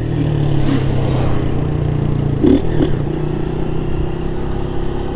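Honda CG 160 Start's single-cylinder engine, running without its air filter, holding a steady speed as the motorcycle cruises, heard close from the rider's seat.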